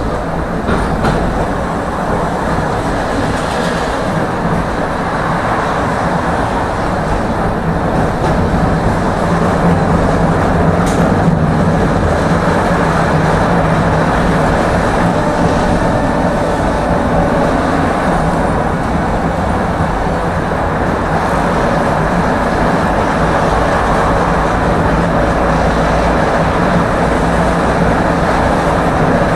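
Tram running along the track between stops: a steady rumble of wheels on rails with a steady low hum.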